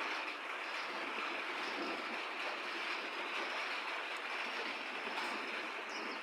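Steady rain falling, an even hiss with a couple of faint ticks of drops.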